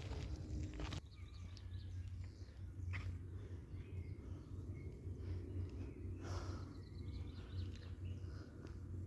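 Faint, short bird chirps over a steady low rumble, with a few brief rustles.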